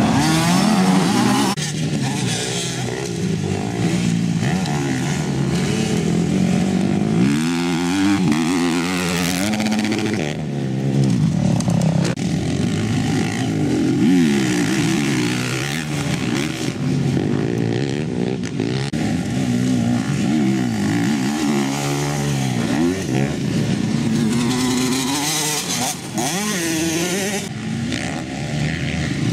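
Several motocross bikes' engines revving up and down, overlapping as the riders ride past. The bikes rise and fall in pitch independently of one another, with no break.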